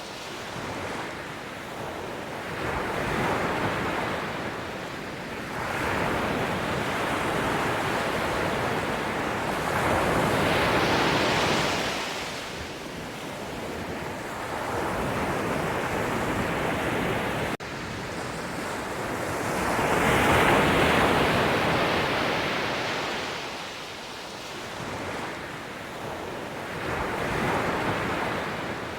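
Sea waves breaking and washing ashore, the surf rising and falling in slow surges every several seconds. There is a momentary cut-out a little past halfway.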